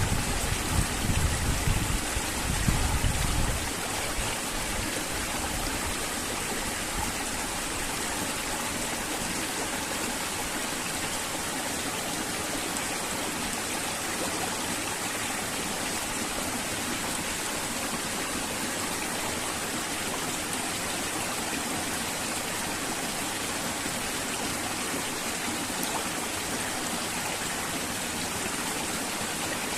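River water flowing steadily, an even rushing sound, with some low rumbling in the first few seconds.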